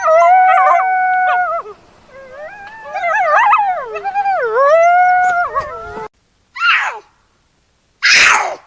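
Coyotes howling: one long held howl, then a run of wavering, rising and falling yips and howls. After an abrupt cut come two short, harsh, hissing screeches that fall in pitch.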